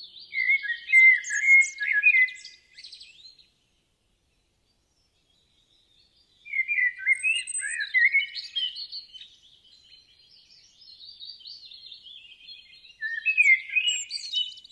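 A songbird singing a phrase of quick, varied chirping notes for about three seconds. After a silent pause of about three seconds, a longer run of song follows.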